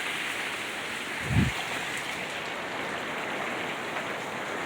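Steady rain falling and pattering on surfaces, with one brief low thump about a second and a half in.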